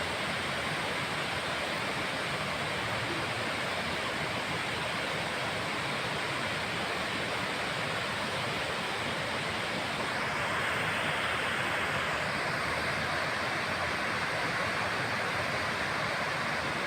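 Waterfall, water falling and splashing in a steady rush, getting a little louder and brighter about ten seconds in.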